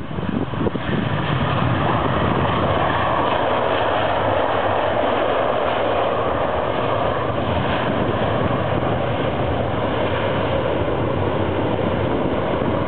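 Boeing 737-500 jet engines: a steady roar that builds over the first second and then holds level.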